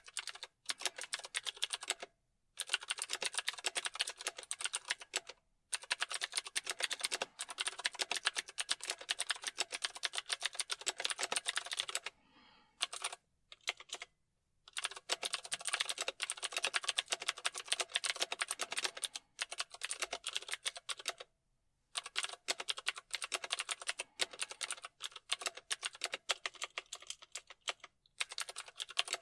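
Typing on a keyboard: rapid, continuous key clicks in long runs, broken every few seconds by brief pauses of about half a second to a second.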